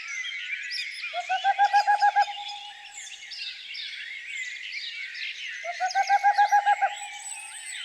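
A dawn-chorus-like mix of many songbirds, with high chirps and whistles overlapping throughout. Twice, a louder, low-pitched series of about ten quick, evenly spaced hooting notes cuts through, each run lasting a little over a second.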